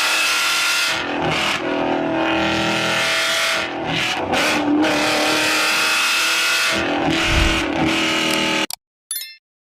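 Ford Mustang engine running and revving, its pitch rising and falling with brief lifts of the throttle. It cuts off abruptly near the end, followed by a short faint tone.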